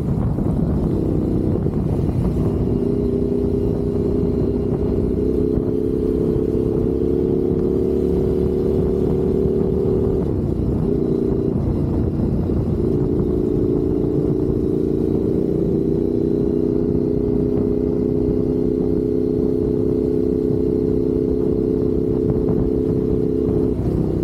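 Motorcycle engine running at a steady cruise under heavy wind and road rumble while riding. The engine note drifts slowly and dips briefly about ten seconds in and again near the end.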